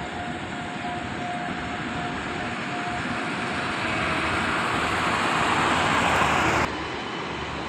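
Train passing, a steady rushing rumble that grows louder until it cuts off suddenly near the end.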